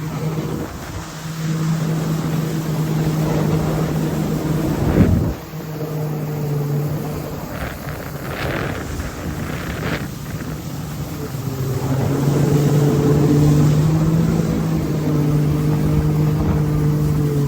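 Jet ski engine running at a steady pitch, with wind buffeting the microphone. The engine drops away briefly about five seconds in, and a few short hisses come between about eight and ten seconds.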